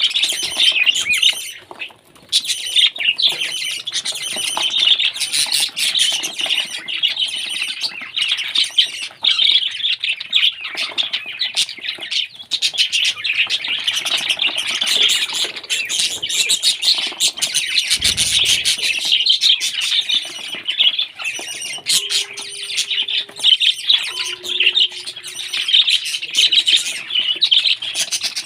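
Pet parrot chattering and chirping almost without pause, a dense run of short squawks and tweets.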